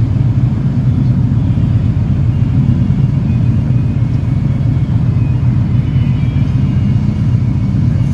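Motorcycle running with a steady low rumble, heard through the rider's microphone.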